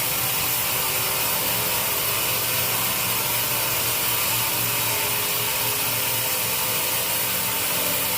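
Sawmill saw running and cutting teak wood: a steady, unbroken noise with a low hum underneath.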